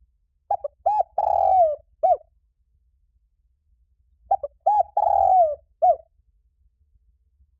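Spotted dove cooing: two song phrases a few seconds apart, each a couple of short coos, then one long burry coo, then a final short coo.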